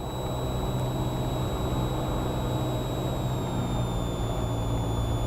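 Cessna 172R's four-cylinder Lycoming engine and propeller running steadily at approach power on final, heard from inside the cabin as a low drone. A faint high whine sits above it and dips slightly in pitch about three and a half seconds in.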